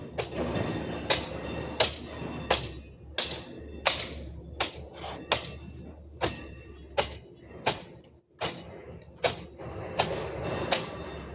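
A metal garden hand tool striking in a steady rhythm, about one sharp stroke every 0.7 seconds, each with a brief metallic ring.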